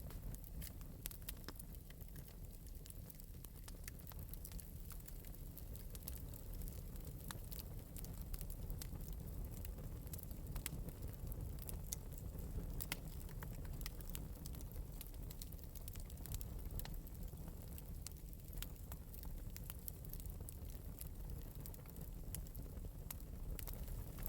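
Wood fire in an open metal fireplace burning steadily, with frequent small, irregular crackles and pops over a low steady rumble of the flames.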